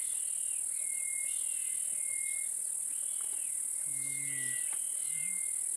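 Steady high-pitched insect drone, such as cicadas or crickets, with a bird repeatedly giving short level whistles and arching calls over it.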